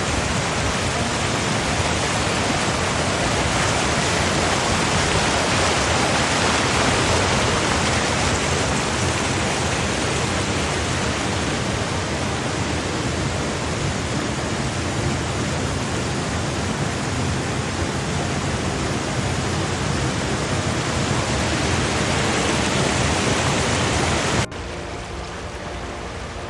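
Heavy rain pouring down, a dense steady hiss. Near the end it cuts off abruptly to a quieter rain sound.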